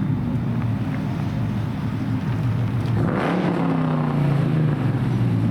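Dodge R/T's V8 engine running with a low rumble, rising in pitch about three seconds in as it picks up revs, then easing back off near the end.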